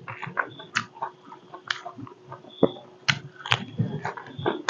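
Close-miked chewing of a man eating with his hands: wet, irregular mouth smacks and clicks, several a second, as he chews a mouthful of rice, meat and fresh greens. A faint steady hum runs underneath.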